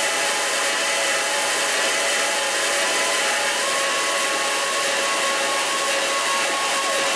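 Harsh noise music: a dense, steady wall of hiss layered with several droning tones. A higher tone enters about halfway through, and a short falling glide comes near the end.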